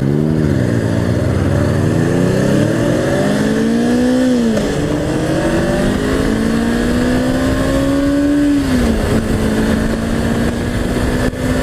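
Honda CBR500's 471 cc parallel-twin engine under hard acceleration, with wind rush. The engine note climbs, drops at an upshift about four and a half seconds in, climbs slowly again, drops at another shift around nine seconds, then holds steady.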